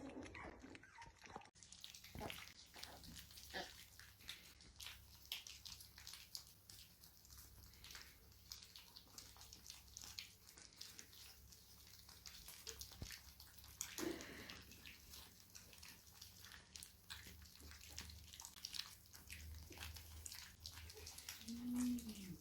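Dachshunds eating: faint, irregular wet clicks and smacks of a dog's mouth at its food. A short pitched sound near the end.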